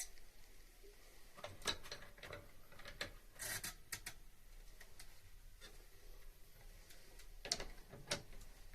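Scattered light clicks and rustling from handling work materials, with a brief rasping rub about three and a half seconds in.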